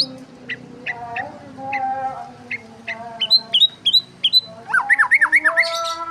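Several small birds chirping and calling over one another: a string of short, sharp chirps, a few held whistled notes, and a quick run of rising and falling notes about five seconds in.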